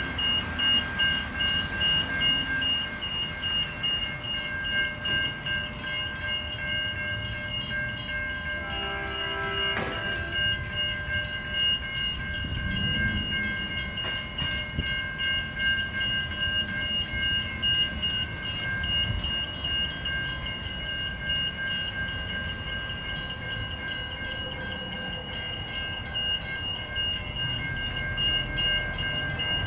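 Level crossing warning bells ringing steadily over the rumble of a passing train, with a short train horn note about nine seconds in.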